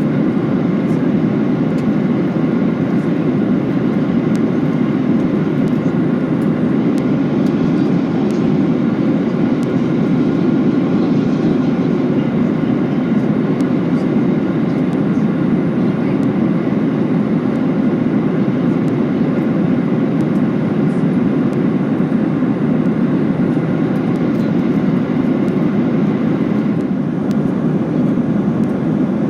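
Steady in-cabin noise of a Boeing 737-800 in cruise: the low, even drone of its CFM56 engines blended with the rush of air along the fuselage, with faint thin whining tones above it.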